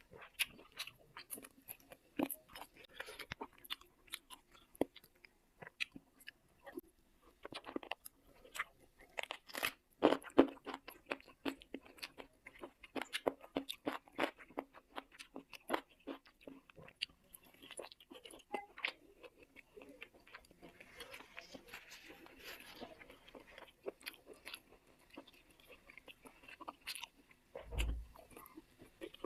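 Close-miked eating of chicken leg curry: irregular wet chewing, biting and crunching, with clusters of clicky crunches. A short low thump near the end.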